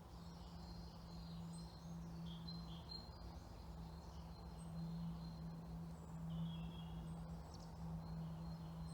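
Faint, scattered bird chirps over a steady low hum and background outdoor noise.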